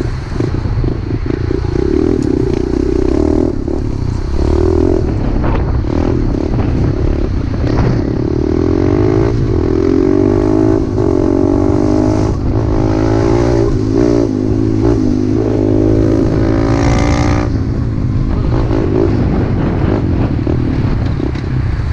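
Pit bike engine running under way on a trail, its revs rising and dropping several times as the throttle is worked, with a steady low rumble underneath.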